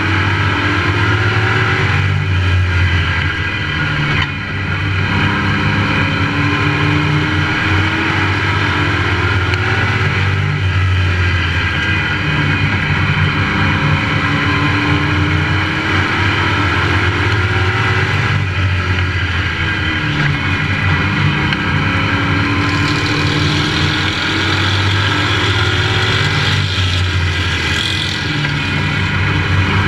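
Race truck engine heard from onboard, running hard under racing load, its revs rising and falling again and again as the truck accelerates down the straights and backs off into the turns.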